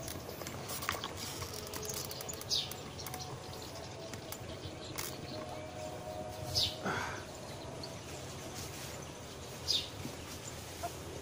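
Birds chirping: a few short, high chirps spaced a few seconds apart over a quiet outdoor background.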